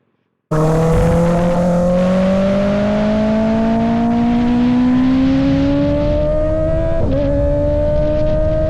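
Kawasaki ZX-6R inline-four engine through a Voodoo Racing slip-on exhaust, loud and accelerating under way: the note climbs steadily in pitch, dips briefly about seven seconds in, then keeps rising.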